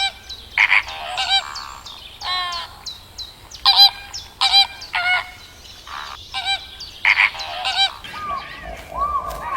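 A series of short animal calls, many of them overlapping, repeating irregularly.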